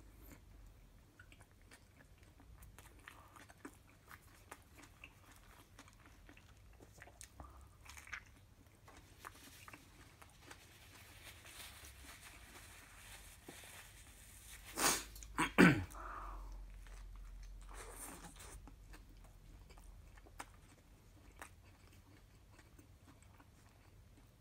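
Close-miked chewing and biting of a fast-food burger: soft wet mouth sounds and small clicks throughout. About fifteen seconds in there is a much louder brief burst that ends in a falling pitch.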